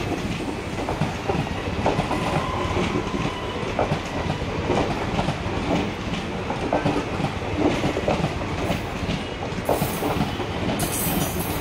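Indian Railways passenger coaches rolling past, their wheels clattering over rail joints in an irregular clickety-clack over a steady rumble. A higher hiss comes in near the end.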